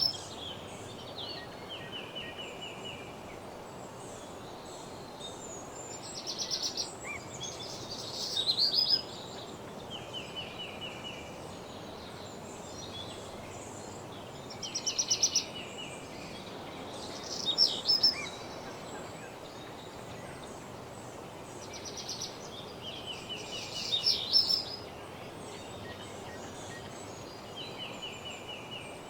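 Woodland birdsong: at least two songbirds repeat short, rapid trilled phrases every few seconds, one lower and one higher and buzzier, over a steady background hiss.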